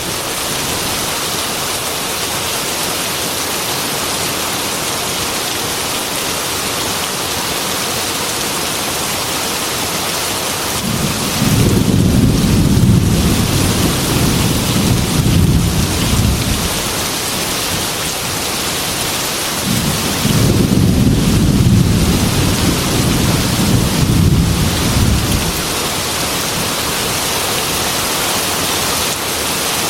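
Heavy rain falling steadily on a glass window, a constant hiss, with two long rolls of thunder: one about eleven seconds in lasting some five seconds, and a second about twenty seconds in, similar in length.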